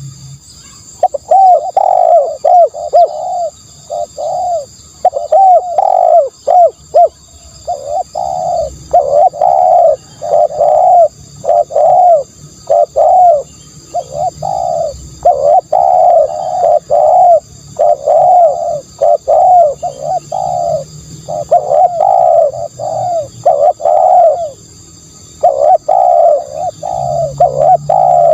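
Spotted dove cooing over and over in short phrases of several notes, with brief pauses between phrases.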